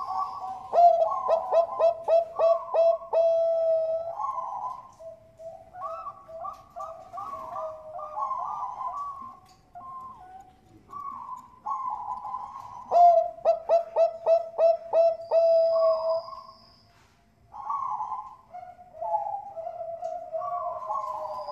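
Perkutut bangkok (zebra doves) cooing in the typical rhythm. Two fast runs of staccato notes start about one second and thirteen seconds in, with softer rolling coos between them. A thin, high, steady whistle is heard briefly about sixteen seconds in.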